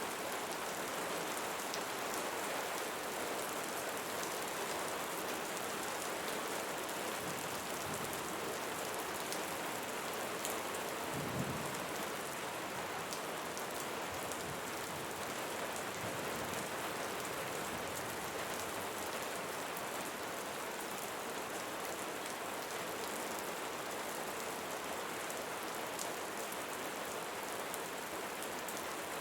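Steady rainfall with many small drops ticking on surfaces. About eleven seconds in there is a brief low rumble.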